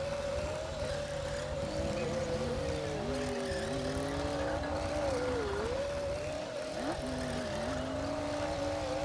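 Komatsu D60P bulldozer running under work, a low diesel rumble with a high whine that wavers and dips in pitch, and a second, lower tone sliding beneath it.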